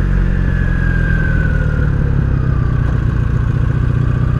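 1983 Honda Sabre VF750S's V4 engine running steadily on the road, its pitch sliding slowly down as the revs fall and the bike slows.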